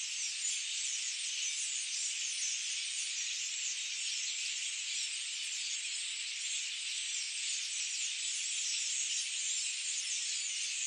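A dense chorus of many small birds chirping at once, blending into a steady high-pitched wash of overlapping twitters.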